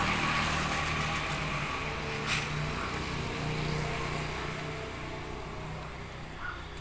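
A motor vehicle's engine running steadily, slowly fading away, with a sharp click about two seconds in.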